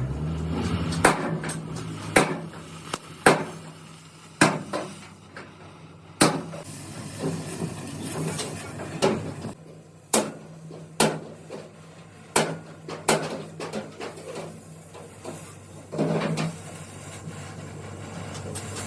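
Hammer blows on metal during truck body repair: a dozen or so sharp strikes at uneven spacing, about one a second with short pauses.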